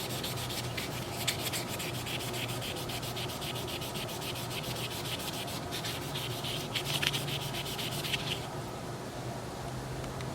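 Sanding pad rubbed back and forth over the scratched case of an Oster 76 hair clipper in quick, even strokes. This is the fifth pad in a series of ever-finer pads that smooth the case toward a shine. The rubbing stops about eight seconds in.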